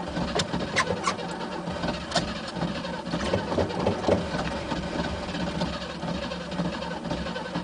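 The starter of a worn 1967 Mercedes cranking the engine, which turns over steadily without catching, with a few sharp clicks in the first couple of seconds. The engine is hard to start after sitting.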